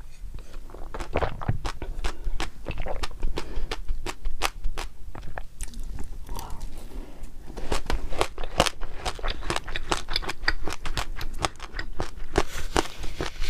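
Close-miked chewing and crunching: a dense, irregular run of crisp crunches and mouth clicks as food is bitten and chewed.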